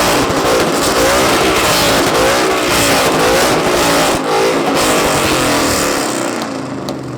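Two modified car engines revved hard at the same time through loud exhausts, the pitch sweeping up and down about once a second, easing off near the end.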